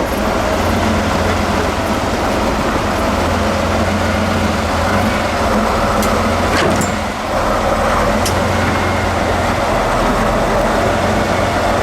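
Heavy off-road truck's diesel engine running steadily, with a brief dip about seven seconds in.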